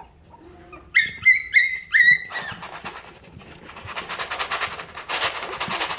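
Chihuahua puppy giving four short, high-pitched yelps, then a long run of rapid scratching and scrabbling as puppies claw at the sides of their box.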